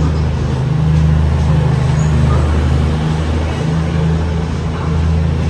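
Underfloor diesel engines of an East Midlands Railway Class 222 Meridian multiple unit running, a loud steady low drone that swells slightly.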